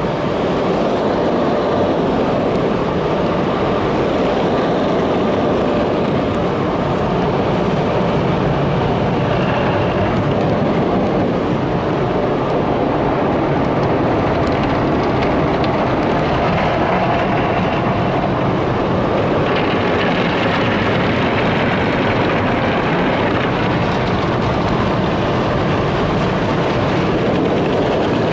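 MacNeil tunnel car-wash equipment heard from inside the car: spinning cloth wraparound brushes scrubbing the body and water spraying, a loud, steady washing noise. Its character shifts a little a few times as the car moves past different equipment.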